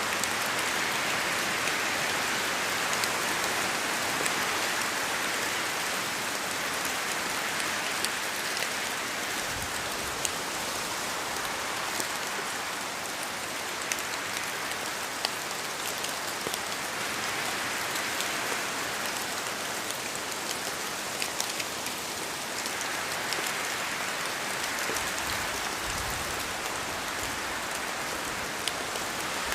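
Steady rain falling, with scattered individual drops ticking close by. The hiss swells and eases every several seconds.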